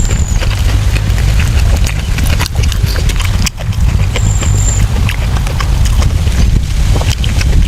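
Close-miked chewing and lip-smacking of a person eating braised pork intestines: many irregular wet clicks over a steady low rumble, with two short high chirps, one at the start and one about four seconds in.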